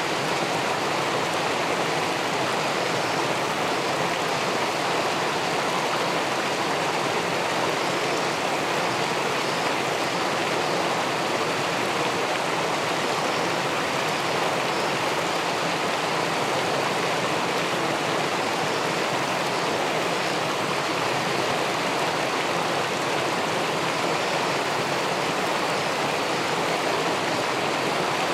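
Steady, unbroken rush of river water pouring over a weir and churning in the pool below.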